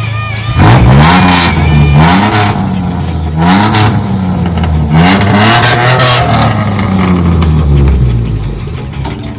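2010 Jeep Wrangler's 3.8-litre V6 with its muffler removed, revved hard several times in quick succession, each rev rising and falling in pitch, dying down near the end.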